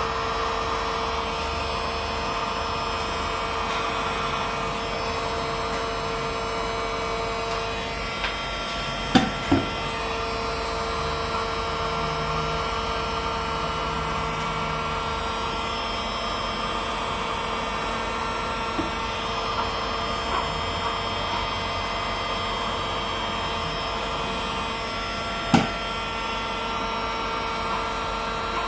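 Steady electric hum and hiss of a plastic-welding tool running while a crack in a plastic water tank is welded, with a few sharp knocks: two close together about a third of the way in and one near the end.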